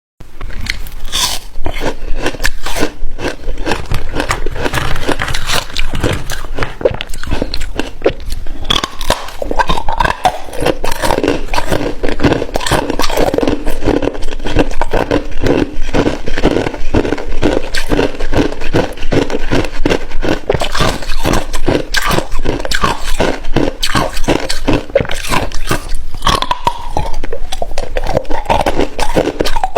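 Hard ice being bitten and chewed close to the microphone: a continuous, rapid crunching, several crunches a second.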